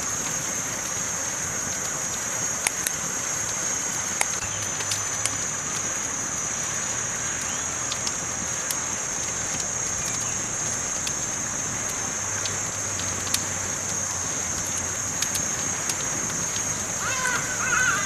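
Campfire crackling, with scattered sharp pops over a steady high hiss.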